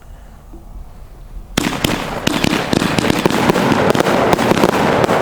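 A 200-gram, 25-shot Pro Mad Ox 'Rampage in the Sky' firework cake going off: after a second and a half of quiet it starts suddenly and loud, then keeps up a dense, rapid crackle of many sharp pops from its shots and breaks.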